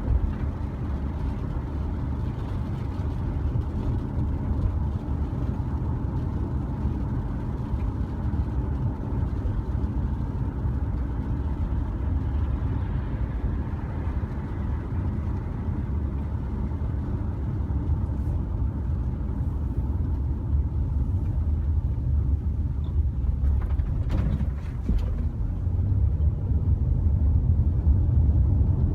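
Steady low outdoor rumble with a fainter hiss over it, a couple of faint clicks along the way, growing a little louder near the end.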